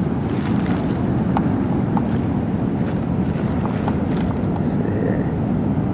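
Steady low rumbling wind noise on the microphone, with a few faint clicks.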